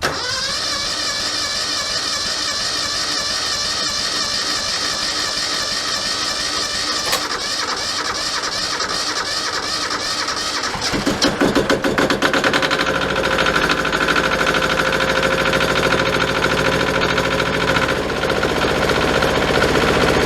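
Yanmar 155D compact tractor's diesel engine being cranked over by the starter with the decompression released, building oil pressure after a fresh oil change. About eleven seconds in it fires, runs unevenly for a couple of seconds, then settles into a steady run.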